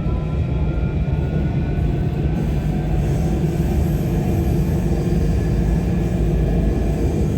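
Tram running along its rails: a steady low rumble with a faint motor whine.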